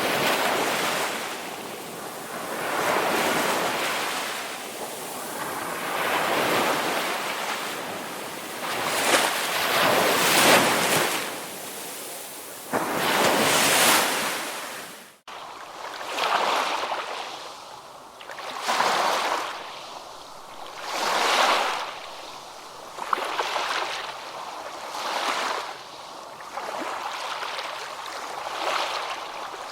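Ocean surf: waves breaking and washing in, swelling and fading every two to three seconds. About halfway through the sound cuts off abruptly for an instant, then resumes with smaller, quicker waves.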